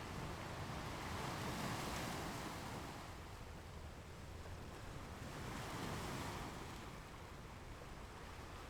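Ocean waves breaking on a shore: a steady wash of surf that swells twice, about two seconds and about six seconds in.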